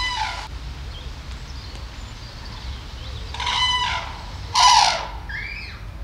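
Birds calling: a pitched call right at the start, another about three and a half seconds in, a rougher one just after, then a few short gliding notes.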